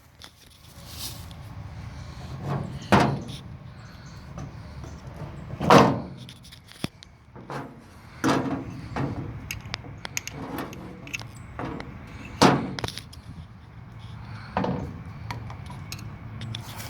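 Clatter of tools and metal parts being handled: five loud knocks and clanks spread through, with smaller clicks between, over a steady low hum.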